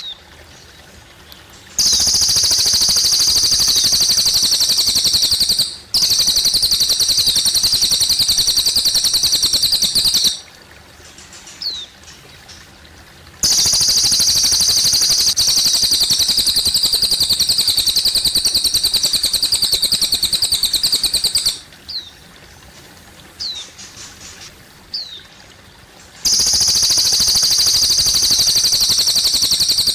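Cililin bird singing long, very rapid, high-pitched trills of several seconds each, four times, with short rising chirps in the pauses between them. A faint trickle of running water lies underneath.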